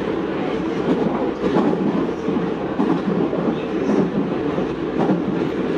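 Meitetsu 4000 series electric train running at speed, heard from inside the car: a steady rumble of wheels on rail with irregular clacks as the wheels cross rail joints.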